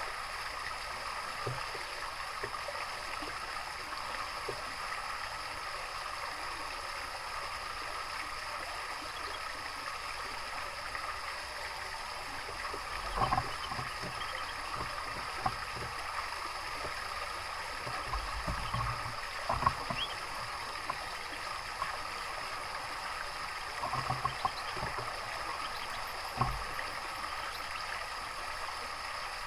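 Steady running water, a continuous trickling flow, with a few short soft knocks and splashes in the second half.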